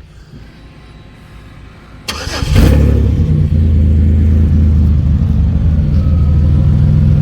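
A 2008 Chevy Impala's 3.9-litre V6 cranks on the starter for about half a second, two seconds in, then catches and settles into a loud, steady idle through its newly installed muffler.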